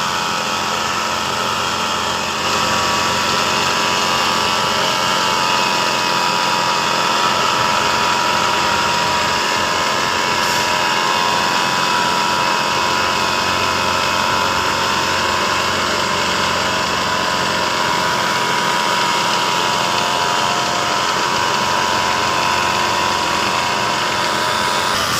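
Construction machinery running steadily: engine noise with a whining motor tone over it, a little louder from about two seconds in.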